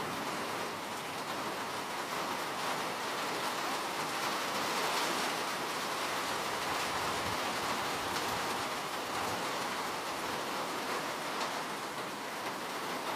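Steady rainfall, an even hiss of falling rain with faint drop ticks, unchanging throughout.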